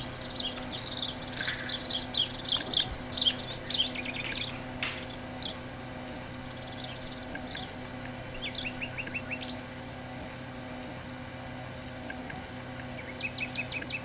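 Small birds chirping: short high chirps come thick over the first few seconds, then thin out, with a quick run of repeated notes about halfway through and another just before the end. A faint steady low hum lies underneath.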